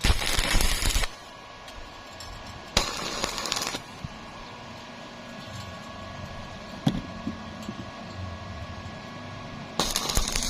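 Three short bursts of stick-welding arc crackle, each about a second long, the kind struck for tack welds. A steady machine hum runs between them, with one sharp click near the middle.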